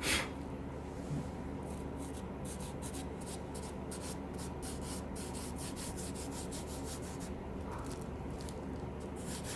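A short puff of breath at the start, blowing dust off an old shave stick, then a run of short dry rubbing and scratching strokes as fingers brush over the stick and its wrapping.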